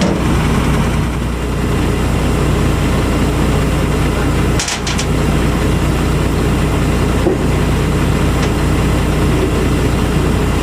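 A heavy diesel engine idling steadily, with a brief knock about four and a half seconds in.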